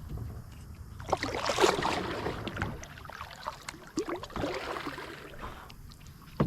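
Kayak paddle strokes through water: two long swishing strokes, the first about a second in and the second about four seconds in, with a few light knocks.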